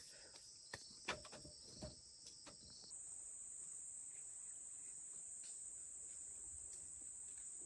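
Insects chirring steadily in a high, even drone, with a few light knocks or snaps in the first three seconds. About three seconds in, the drone abruptly changes to a single higher pitch.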